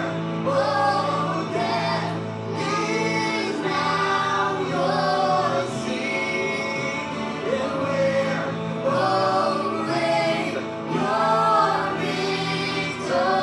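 Congregation and worship band singing a gospel worship song together, voices over steady instrumental accompaniment.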